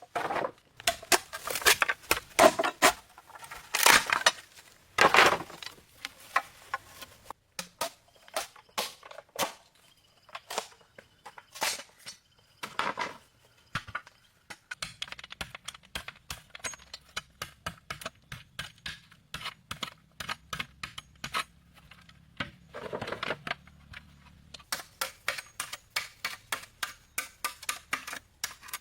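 Irregular sharp clicks and knocks of hard material, with several louder hits in the first few seconds, another about halfway and one more near the end.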